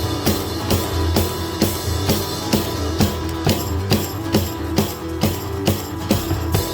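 Live rock band playing an instrumental stretch: drums, guitar and bass with a steady beat, without singing.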